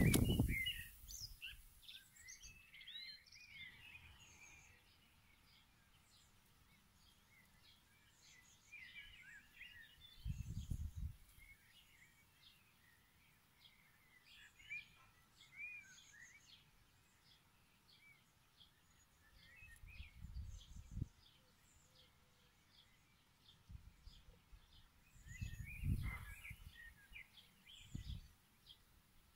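Small birds chirping and twittering in many short, high calls throughout. A low rumble of wind noise on the microphone comes in about ten seconds in, again around twenty seconds, and most strongly near the end.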